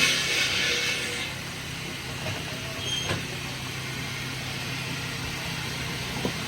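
Heavy machinery running with a steady low hum, under a loud hiss that dies away about a second in. A few faint knocks sound over it.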